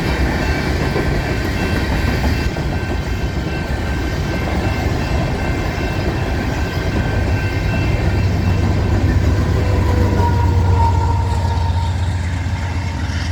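Freight train of loaded coal cars rolling past: a steady rumble of steel wheels on rail, with faint high ringing tones. A low hum grows louder from about eight seconds in.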